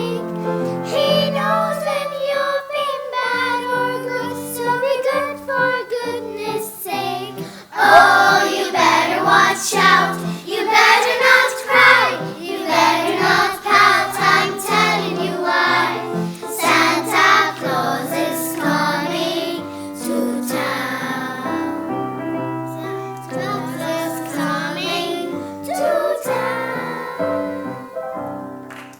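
Children's choir singing with instrumental accompaniment. The music dies away right at the end.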